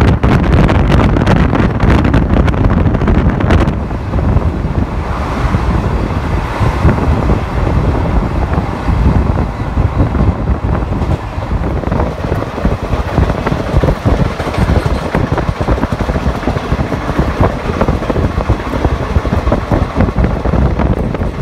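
Wind buffeting the microphone at the open door of a moving passenger train, over the steady running noise of the train on the track.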